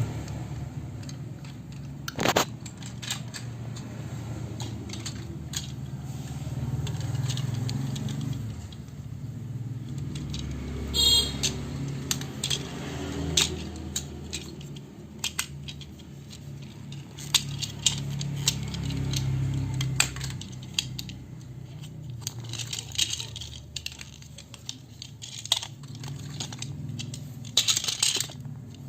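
Plastic toy pieces clicking and rattling as they are handled, with sharp clicks scattered irregularly and a few louder snaps, over a steady low hum.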